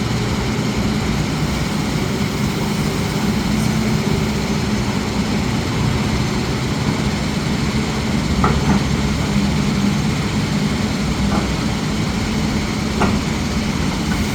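Heavy diesel machinery engine running steadily with a low hum, and a few brief clanks about halfway through and near the end.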